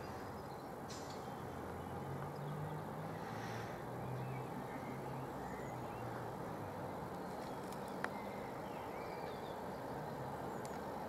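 South Western Railway electric multiple-unit train approaching slowly, a faint steady low hum, with a few faint bird chirps and a single sharp click about eight seconds in.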